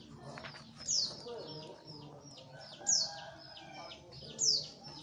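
A bird calling repeatedly: a sharp, high note sliding steeply downward, three times, with softer chirps between. A low murmur runs underneath.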